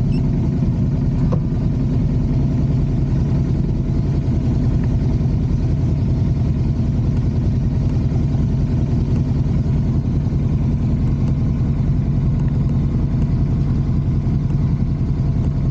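Motorcycle engine running steadily at an even speed, with no revving.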